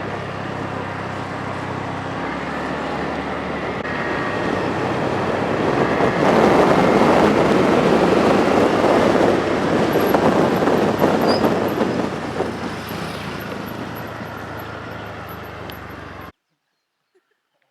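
Motorcycle on the move: steady engine drone and wind rush that swell louder for several seconds midway, then cut off suddenly near the end.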